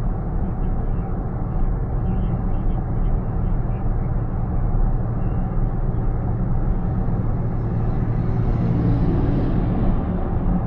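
Steady low road and tyre rumble of a moving car heard from inside the cabin, swelling a little about eight to nine seconds in.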